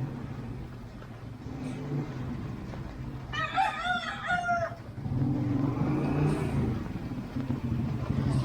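A rooster crows once, a single call of about a second and a half starting a little over three seconds in, over the steady low hum of a vehicle engine that grows louder about five seconds in.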